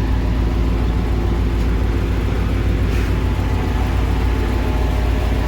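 Truck diesel engine running steadily, driving the hydraulics of a truck-mounted crane that is lifting a heavy load of about five tonnes.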